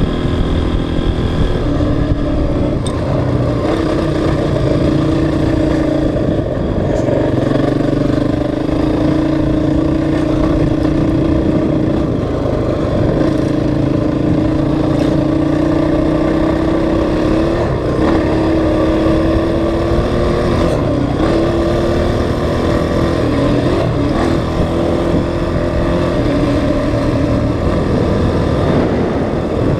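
Honda CRF450X's single-cylinder four-stroke engine running steadily as the bike is ridden, its pitch holding for stretches and dipping briefly several times, from about twelve seconds in.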